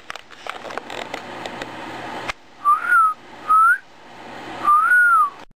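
Crackly rustling for the first two seconds, then a person whistling three short notes to a pet cockatiel, a short rise and dip, a quick upward note and a longer rise and fall. The sound cuts off suddenly near the end.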